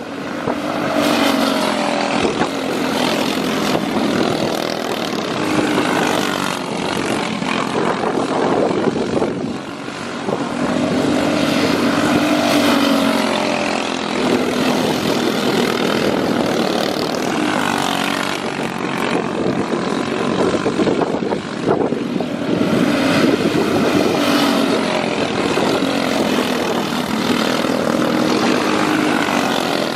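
Outlaw dirt kart engines racing, their pitch rising and falling in a repeating cycle about every five to six seconds as the karts accelerate and back off around the track.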